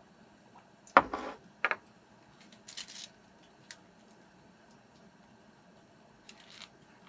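A sharp knock about a second in, then a few lighter clatters and clicks with short scraping sounds, like things being handled and set down.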